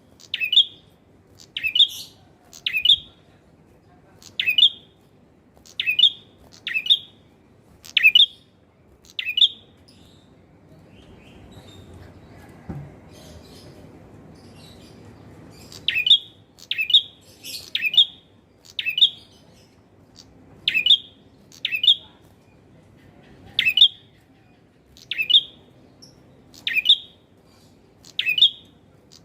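Male red-headed prenjak singing vigorously: a loud, clear series of short, sharp, falling chirps about one a second. They stop for about five seconds in the middle, then start again.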